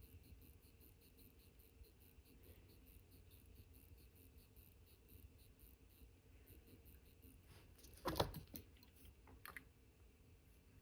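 Faint, fast, even ticking of a mechanical watch movement running at about six beats a second; it breaks off about six seconds in and comes back unevenly. About eight seconds in there is a brief cluster of louder clicks and scrapes, with a smaller one about a second later, from tools handling the movement.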